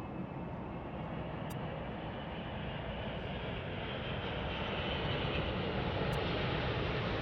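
Four-engine Airbus A380 airliner on final approach, a steady jet rumble and hiss that grows gradually louder as it nears.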